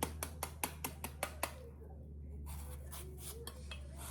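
Knife chopping mango into thick julienne strips on a cutting board, quick even strokes about five a second that stop about a second and a half in, followed by softer handling sounds. A steady low hum runs underneath.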